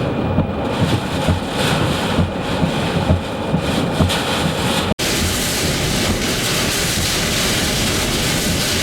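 Hurricane eyewall wind gusting hard, buffeting the microphone with low thuds in uneven pulses. About five seconds in the sound drops out for an instant and comes back as a steadier, hissier rush of wind.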